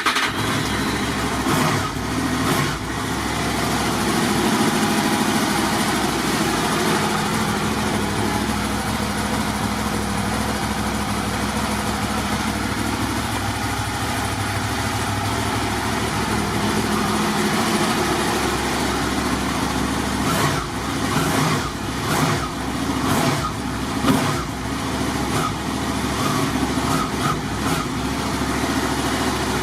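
Honda VFR800 VTEC's V4 engine idling steadily just after being started, still cold, with a few brief uneven spots about two-thirds of the way through.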